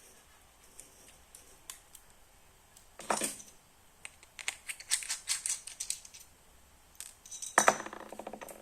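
Small phone parts being handled and fitted together by hand: scattered plastic clicks and taps, a short scrape about three seconds in, a quick run of clicks in the middle, and a longer rattling scrape near the end.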